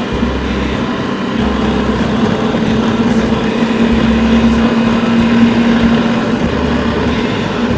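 Adventure motorcycle engine running steadily under way, with wind and road noise.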